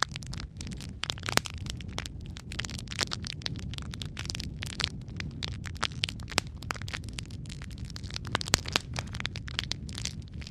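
Logs burning in a fireplace, crackling and popping continuously, with a few louder pops, over a steady low rumble of the fire.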